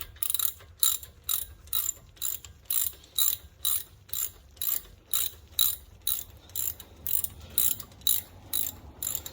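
Socket ratchet fitted with a 19 mm socket being worked back and forth, its pawl clicking in an even rhythm of about two bursts a second as a bolt is run in.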